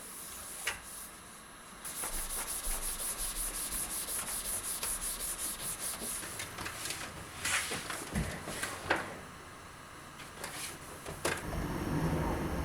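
Rapid back-and-forth rubbing or scrubbing strokes on a surface, about five a second, then slower scattered scrapes and a few knocks. Near the end a low steady rumble comes in.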